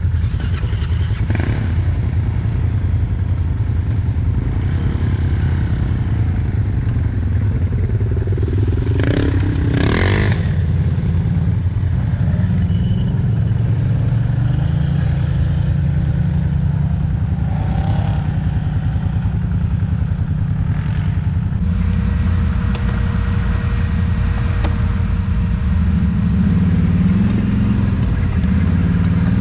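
Off-road vehicle engine running steadily at low revs, with its pitch rising near the end as it is revved. A brief noisy rush comes about nine to ten seconds in.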